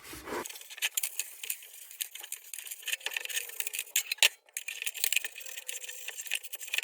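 Superfine steel wool rubbing over the tin of an old lantern, a continuous run of quick, irregular scratchy strokes.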